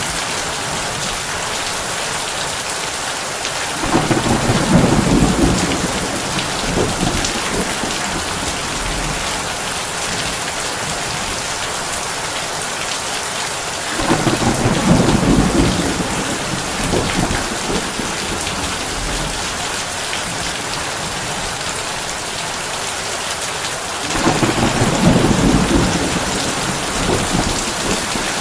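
Heavy rain drumming steadily on a tin roof, with three low rolls of thunder, each a few seconds long, about ten seconds apart.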